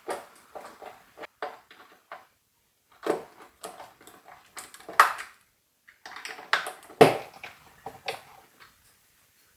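Irregular clinks and knocks of dishes being handled and set down, some hits ringing briefly, with two short pauses.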